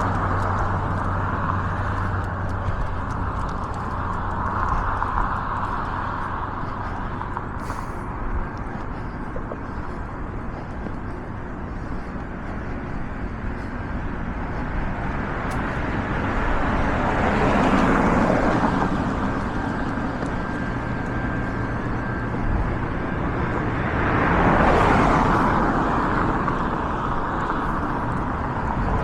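Street ambience with a steady hum of road traffic, and two cars passing close by, their tyre and engine noise swelling and fading a little past halfway and again near the end.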